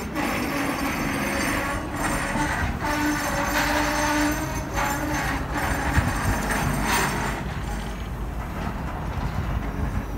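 Loaded freight train of old CSX rock hopper cars rolling past: a steady rumble of steel wheels on rail, with several clunks as wheels cross rail joints and a brief steady tone a few seconds in.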